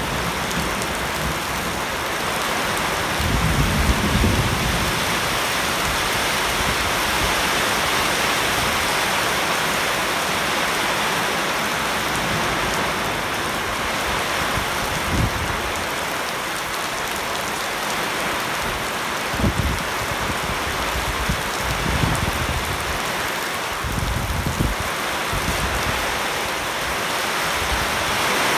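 Heavy rain falling steadily on leaves and standing water on paving, an even hiss. A low rumble comes a few seconds in, and a few short low thumps follow later.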